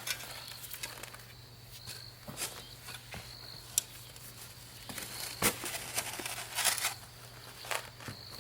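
Scattered footsteps and short knocks and scrapes of handling work, the loudest a little past the halfway point, with a faint high chirp recurring every second or so.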